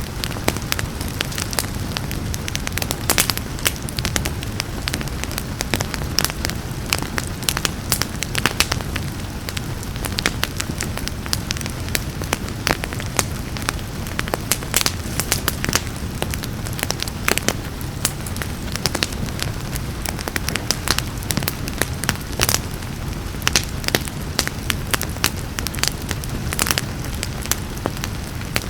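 Wood fire crackling and popping with frequent irregular snaps over a steady low rumble, with a soft hiss of rain beneath.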